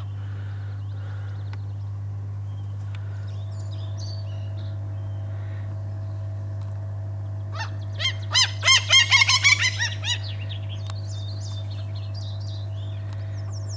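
Gulls calling: a burst of about eight loud, rapidly repeated calls a little before the middle, with fainter gull calls before and after. A steady low hum runs underneath.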